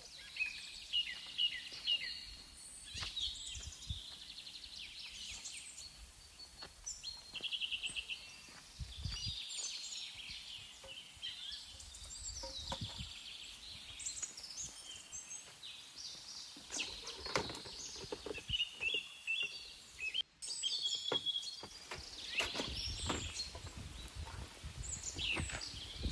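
Several small songbirds chirping and trilling outdoors, many overlapping short calls, with a few scattered low knocks.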